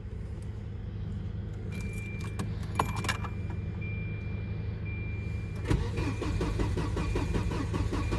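Keys jangle and an intermittent high warning tone sounds, then about two-thirds of the way in the 1993 Volvo 940 Turbo's starter cranks the engine with a fast rhythmic churn and it does not catch. This is a no-start, which the owner suspects is a dead fuel pump.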